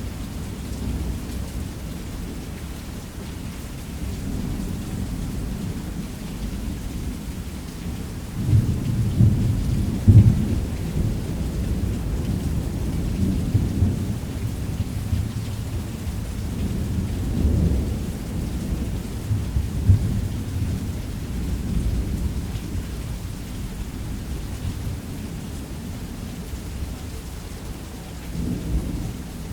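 Steady rain on a roof under rolling thunder, which rumbles low and swells louder about a third of the way in and again a little past the middle.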